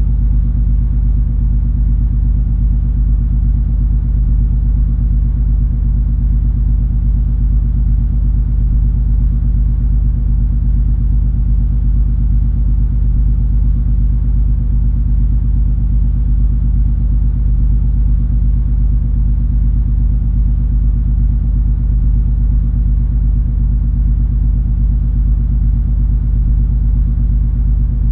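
Steady low rumble of the cruise ferry MS Color Magic under way, its engines giving a deep drone with a constant hum in it that never changes.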